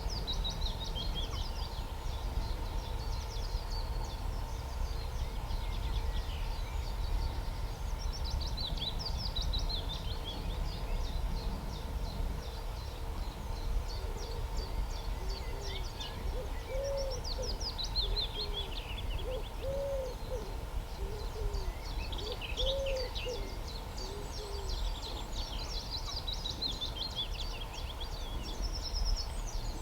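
Wild birds calling: small birds chirp and sing on and off throughout, and from about halfway through a low cooing or hooting call repeats several times in pairs. A steady low rumble lies underneath.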